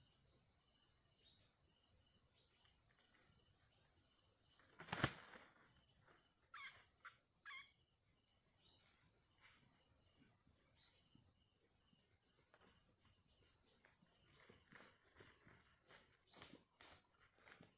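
Insects keeping up a steady high-pitched buzz with regular chirps, faint overall, broken by one sharp click about five seconds in and a few soft knocks and rustles later on.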